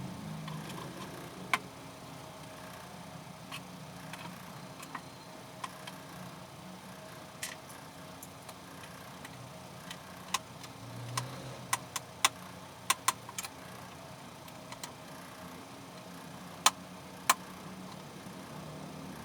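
A dozen or so sharp, separate clicks and taps of small hard objects, several close together past the middle and two louder ones near the end, over a low steady hum.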